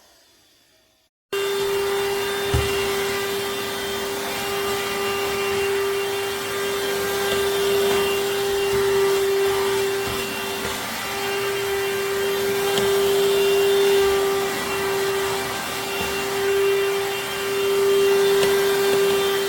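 Cordless handheld vacuum cleaner running: a steady motor whine over rushing air. It cuts in abruptly about a second in, and there is a single short knock shortly after.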